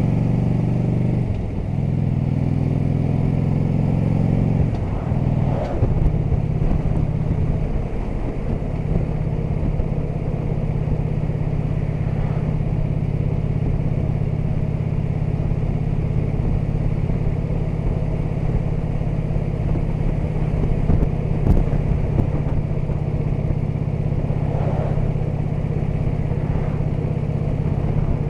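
Harley-Davidson touring motorcycle's V-twin engine running while riding along a road, its note shifting in the first few seconds and then holding steady at cruise, with wind and road noise.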